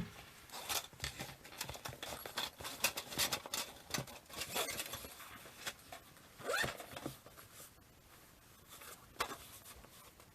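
Faint scattered clicks, taps and rustling, as of small things being handled close by, with a brief rising squeak about six and a half seconds in.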